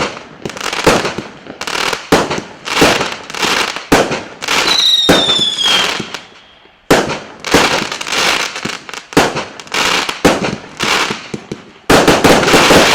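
A 100-shot firework cake firing shot after shot, each a sharp bang with a crackling tail. About four and a half seconds in, a whistling shot gives a falling whistle for about a second, and near the end the shots run together into dense crackling.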